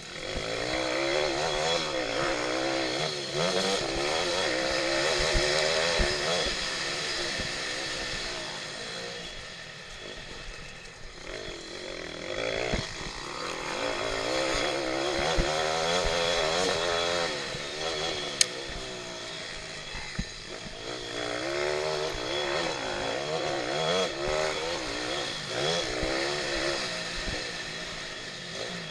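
Pit bike's small single-cylinder engine revving hard, its pitch climbing and dropping again and again as the throttle is opened and closed through the race, with about three longer surges.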